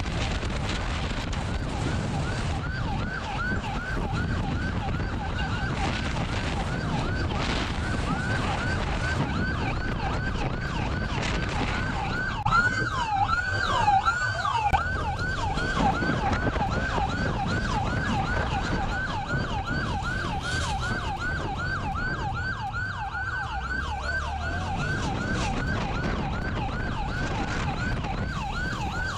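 Police car siren on a fast yelp, its pitch sweeping up and down a few times a second without a break, over the pursuing car's road and engine noise. Partway through, a second siren overlaps it briefly.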